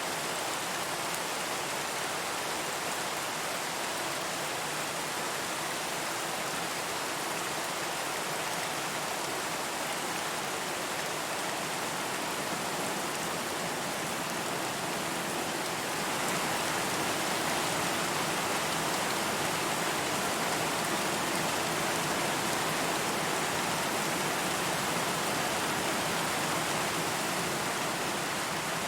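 Steady rain falling, an even hiss of drops that grows a little louder about halfway through.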